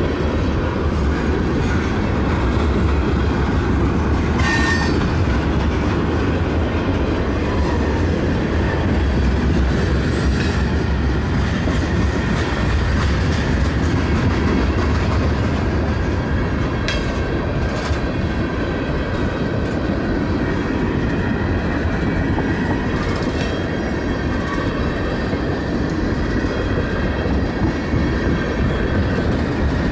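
Freight train tank cars rolling past on steel wheels: a steady rumble with clickety-clack over the rail joints and a sharp clank about seventeen seconds in.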